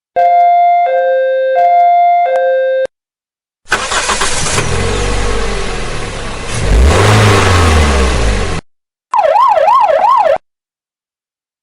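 A series of separate vehicle sound clips: a two-tone hi-lo emergency siren alternating between two notes, then a vehicle engine running for about five seconds with its pitch rising and falling once, then a short, fast-warbling siren.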